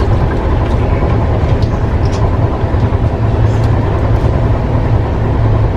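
Steady rumble of an Indian Railways passenger train running, heard from inside the compartment, with a few faint clicks.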